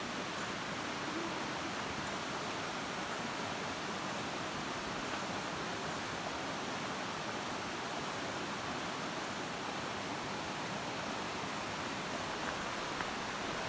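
Steady rush of falling or flowing water, a waterfall or hill stream, even and unbroken throughout.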